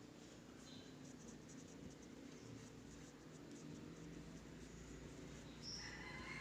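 Felt-tip marker drawing on paper: faint, short strokes.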